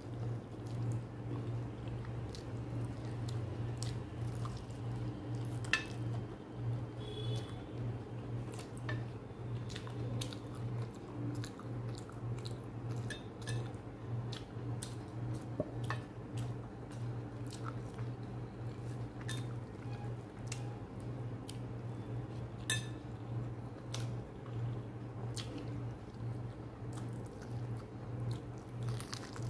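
Close-up chewing and wet mouth sounds of a person eating rice and chicken curry by hand, with scattered sharp clicks and an occasional clink of a plate. A steady low hum runs underneath.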